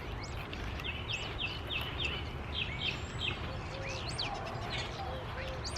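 Small songbirds chirping: a run of short falling chirps, about two a second, then scattered calls, over a steady low background noise.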